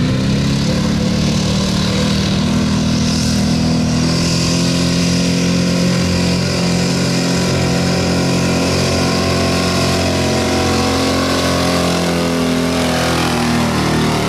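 1983 Chevy pickup's engine at high revs during a truck pull, dragging the weighted sled. The pitch climbs in the first second, holds steady under full load, then drops near the end as the throttle comes off.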